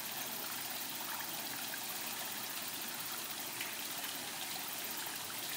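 Water trickling and running steadily, like a small stream or water feature flowing into a pond.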